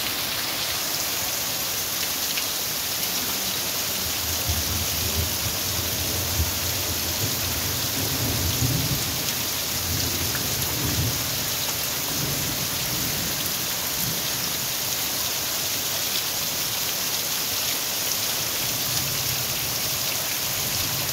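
Heavy rain pouring steadily onto a muddy, puddled yard, a constant hiss, with a low rumble of thunder from about a fifth of the way in to just past the middle.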